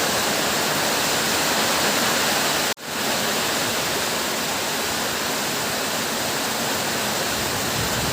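Heavy rain pouring down as a loud, steady hiss, cutting out for an instant about a third of the way in before carrying on unchanged.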